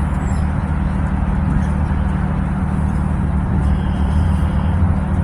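Steady low rumble and hum of a running vehicle, with a steady hiss over it.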